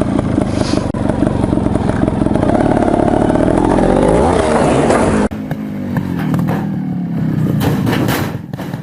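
Beta trials motorcycle engine running and revving, its pitch rising and falling about four seconds in. About five seconds in the sound cuts abruptly to a quieter take of the engine, with a few sharp knocks near the end.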